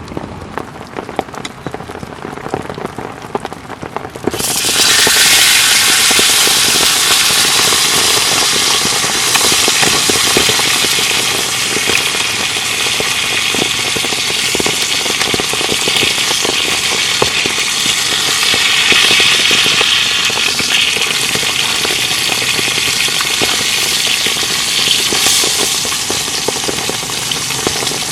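Rain pattering with scattered drips, then about four seconds in a beef rib steak hits a hot pan and sizzles loudly and steadily, a dense crackling hiss.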